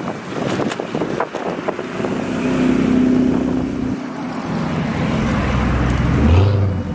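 Car engines running as custom cars drive out, with a low exhaust rumble swelling to its loudest near the end. Strong wind buffets the microphone throughout.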